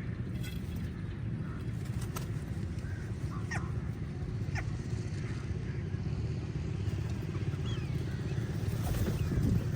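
A few short bird calls, each falling in pitch, about three and a half and four and a half seconds in, with fainter calls later, over a steady low rumble.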